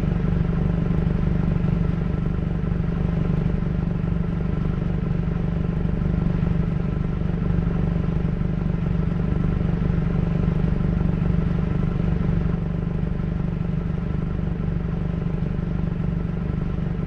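Vehicle engine running at a steady speed, an even low hum that keeps the same pitch throughout.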